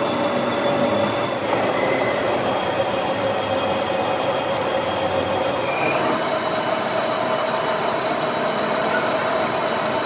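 A workshop machine working metal, giving a steady squealing whine with a held tone. The tone steps slightly higher about six seconds in.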